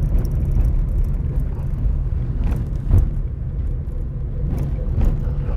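Vehicle driving on a gravel road: a steady low rumble of engine and tyres, broken by a few short knocks from bumps and stones, the loudest about three seconds in.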